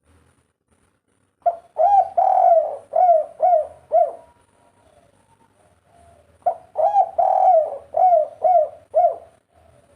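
Spotted dove cooing: two phrases a few seconds apart. Each is a quick run of about six coos, with one longer, drawn-out coo near its start.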